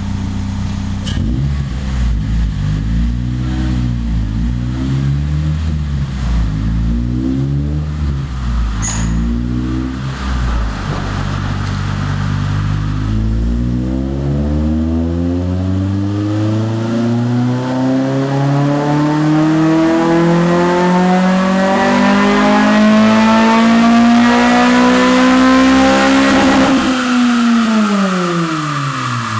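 2007 Honda Civic Si four-cylinder engine, breathing through a Fujita short ram intake and a Skunk2 MegaPower R 70 mm cat-back exhaust, making a dyno pull. After several seconds at low revs with the pitch wavering, it climbs steadily under full load for about fourteen seconds. Near the end the throttle is closed and the revs fall quickly.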